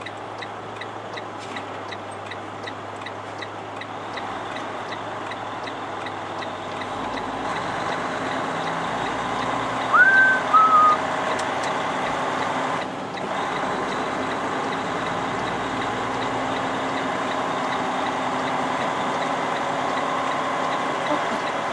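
Semi truck's diesel engine idling steadily, heard from inside the cab. About ten seconds in come two short high squeals, the first rising, the second a little lower.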